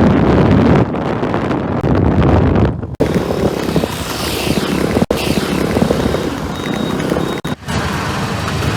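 A Suzuki Skydrive 125 scooter riding along, its engine and road noise heard under heavy wind buffeting on the microphone. The sound breaks off for an instant about three, five and seven and a half seconds in.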